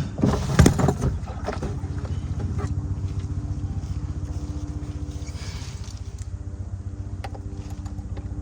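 Engine running at a steady idle, with a brief clatter in the first second.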